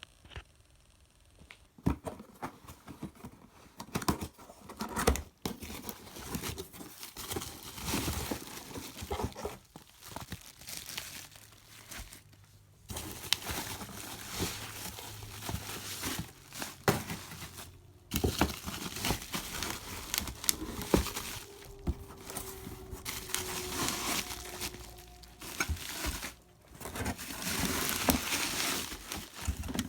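Packaging of a cold air intake kit being handled and opened: irregular crinkling and tearing of wrapping with scattered knocks and clicks, stopping briefly now and then.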